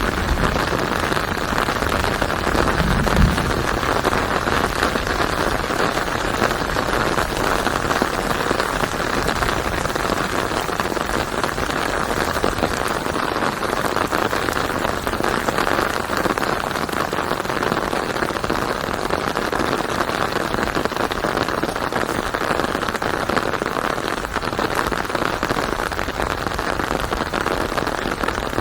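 Rain falling steadily on a surface, an even hiss with no let-up, and a brief low rumble about three seconds in.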